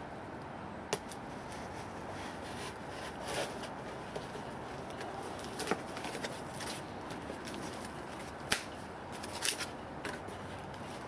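Handling of a graphite crucible and its packaging: scattered short clicks and soft rustles over a steady background hiss.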